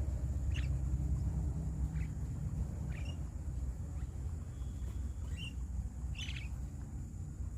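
Short bird calls, about five, spaced a second or two apart, over a steady low rumble of wind.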